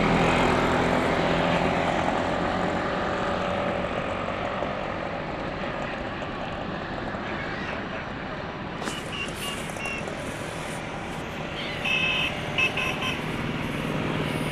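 Steady motor and traffic noise with a low engine hum, and a few short high horn toots about two-thirds of the way through and again near the end.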